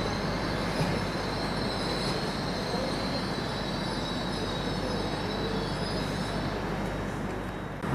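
Train moving through the station with a high-pitched wheel squeal over a steady rumbling of the wheels on the track. The sound cuts off abruptly near the end.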